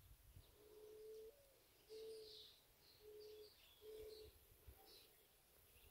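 Faint bird calls: a series of four low, level hooting notes about a second apart, with faint higher chirps from other birds.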